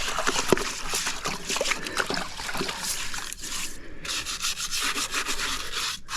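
Pool brush scrubbing the pool surface: a steady, rough rubbing noise with brief pauses between strokes.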